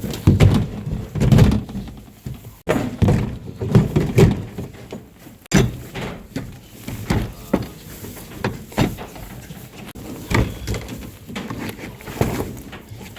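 Irregular knocks and thumps, heavier in the first few seconds, then lighter scattered clicks and taps.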